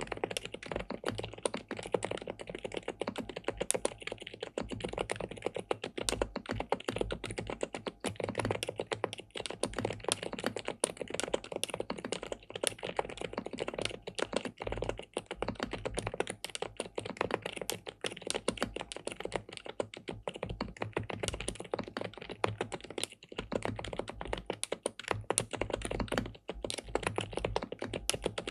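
Fast, continuous typing on an SPM Mongdol87 (PL87W) tenkeyless mechanical keyboard with linear switches and a polycarbonate plate, the keystrokes clacking in quick succession.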